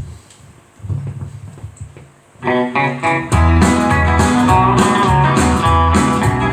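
Instrumental intro of a country song played on guitars with bass. After a quieter start, it comes in about two and a half seconds in, and the full backing is louder from about a second later.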